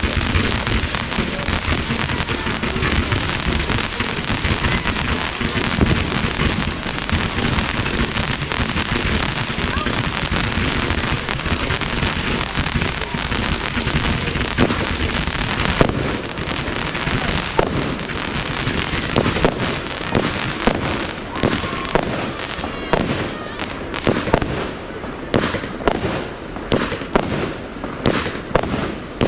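Fireworks display: a dense run of crackling and bangs. Later on it thins to separate sharp cracks, several a second.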